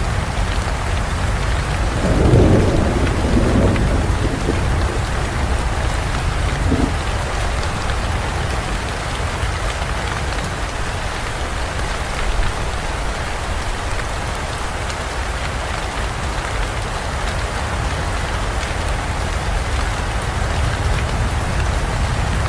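Heavy rain falling steadily, with a low rumble of thunder about two seconds in that lasts a couple of seconds and a short low knock of thunder a few seconds later.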